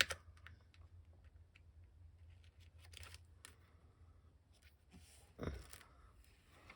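Quiet handling of paper and small craft items on a work table: scattered light clicks and rustling, a sharp click at the start and a soft thump about five and a half seconds in.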